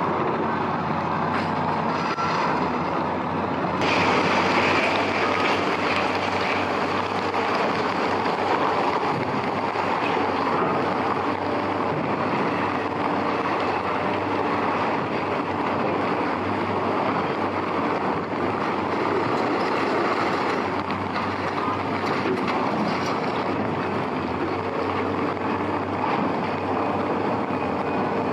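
Heavy rain making a steady noise over a diesel engine running at a steady speed. The rain grows a little louder and brighter about four seconds in.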